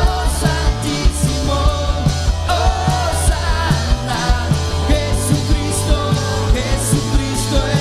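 Rock-style worship band music: drum kit keeping a steady beat with regular cymbal hits, under bass and electric guitar, in a passage between sung verses.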